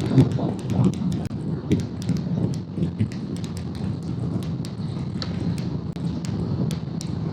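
Motorcycle running on the road, heard as a dense low rumble with frequent short sharp clicks over it.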